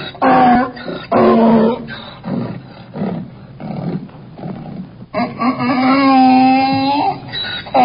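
Donkey braying: two loud pitched calls near the start, a stretch of quieter rhythmic gasps, then one long drawn-out call.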